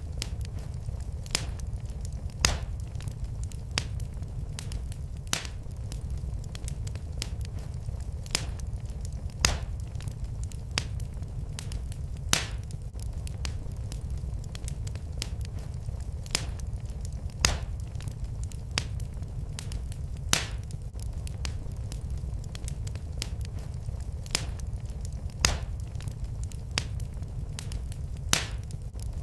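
Wood fire burning in a fireplace: a steady low rumble with sharp crackles and pops every second or two.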